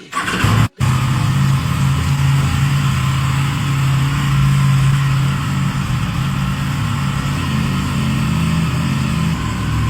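Aprilia 457's parallel-twin engine on a cold start, firing up right at the beginning and then idling steadily.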